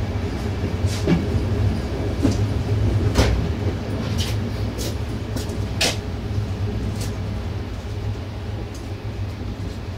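Moving train heard from the locomotive: a steady low diesel rumble with irregular clicks and knocks of the wheels on the rails, a sharp one about six seconds in. It grows gradually quieter.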